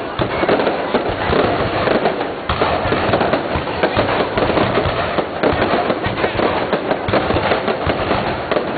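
Aerial fireworks shells bursting one after another, a dense continuous barrage of bangs and crackles that overlap without a break.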